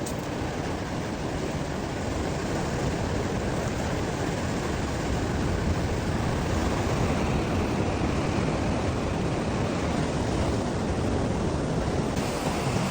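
Ocean surf washing ashore as a steady rush of noise, a little louder from about five seconds in.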